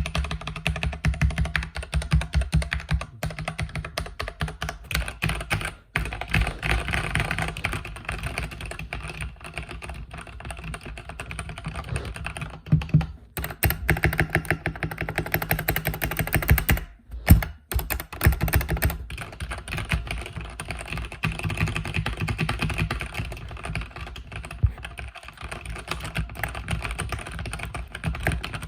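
Continuous fast typing on a mechanical keyboard with red (linear) switches, a dense stream of key clicks and thocks with a couple of brief pauses and a few harder keystrokes.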